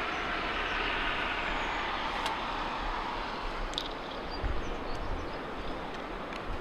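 Rushing noise of a passing vehicle that slowly fades over the first few seconds, with a few faint clicks.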